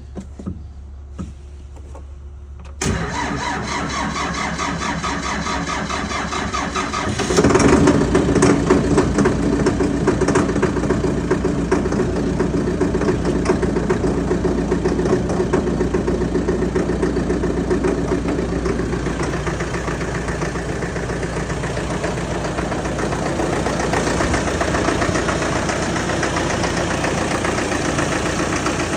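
Cold start of the Solis 75's 4.1-litre four-cylinder turbocharged common-rail diesel: the starter cranks it over for about four seconds, then the engine catches with a jump in loudness and keeps running steadily.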